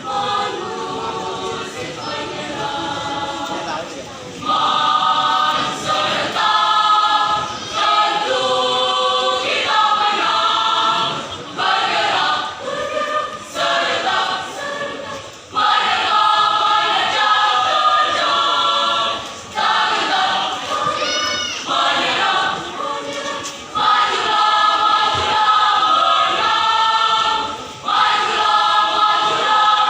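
School choir singing in several-part harmony. Its phrases alternate between loud, full passages and softer, quieter ones.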